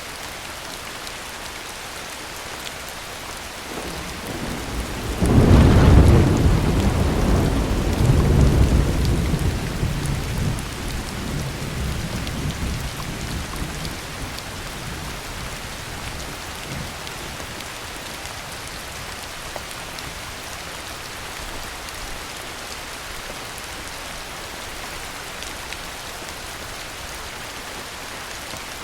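Steady heavy rain with a thunderclap about five seconds in. The thunder builds quickly to a sharp peak, surges again a few seconds later, then rumbles away over several seconds, leaving the rain alone.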